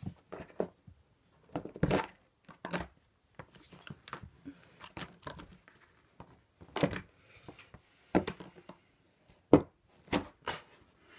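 Cardboard box rustling and scraping in irregular bursts as a cat moves about inside it, with the loudest scrapes about two, seven and nine and a half seconds in.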